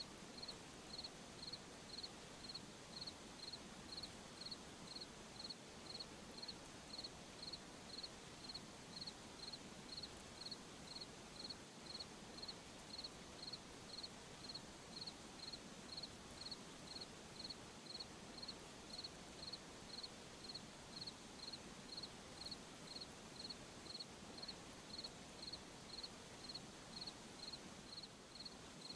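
A cricket chirping steadily at night: short, high chirps in an even rhythm, a little under two a second, over a faint steady hiss.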